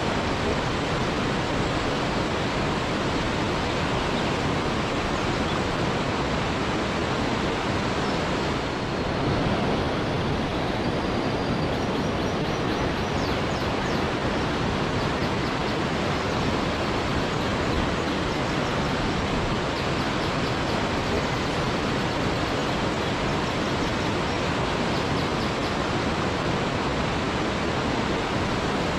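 Waterfall rushing, a steady even roar of falling water that does not change. Faint high chirps come through briefly in the middle.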